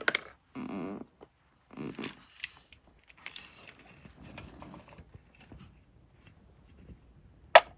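Small handling noises: a few short scrapes and rustles early on, scattered soft clicks, and one sharp click near the end.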